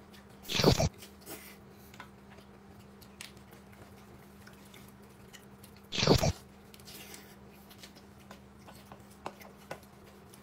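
A person eating: quiet chewing with small scattered mouth clicks, and two loud short bursts, one about half a second in and one about six seconds in, over a steady low hum.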